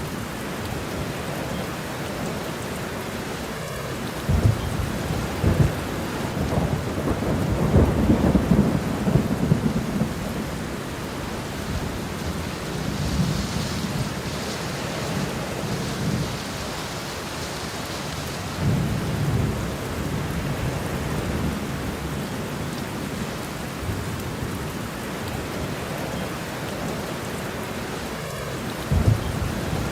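Thunderstorm: steady rain falling with low rolls of thunder rumbling in several times, the strongest about eight seconds in.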